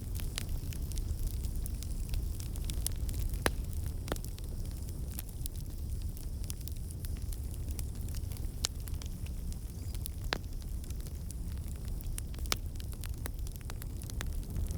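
Fire burning in a fireplace: a steady low rumble of flames with irregular sharp crackles and pops, a few of them standing out louder.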